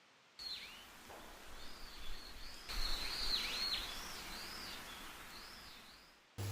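Birds chirping: a run of short whistled notes that arch up and down over a steady outdoor hiss. It starts about half a second in and cuts off abruptly just before the end.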